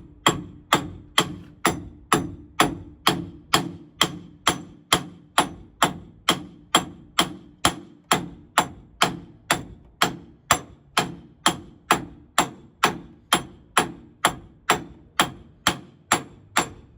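Hammer tapping a driveshaft yoke onto its splined shaft, a steady run of light metal-on-metal taps at about two and a half a second, each ringing briefly.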